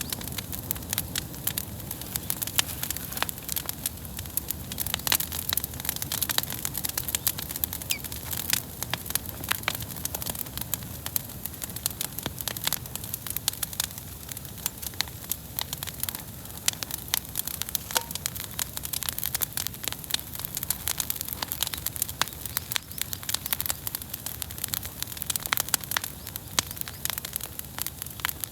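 Wood fire burning, with a steady stream of irregular crackles and sharp pops.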